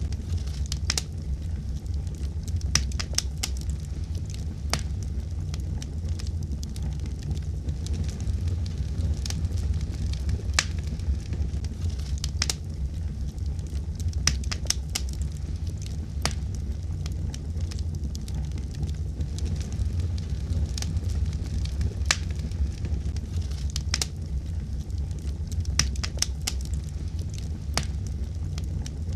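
Wood fire crackling: a steady low rumble of burning with frequent sharp pops and snaps at irregular intervals, sometimes several in quick succession.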